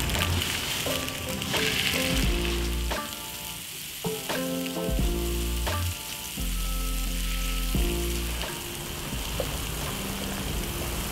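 Meatballs sizzling as they fry in hot oil in a non-stick pan, with a few soft taps as more meatballs are set down in the pan.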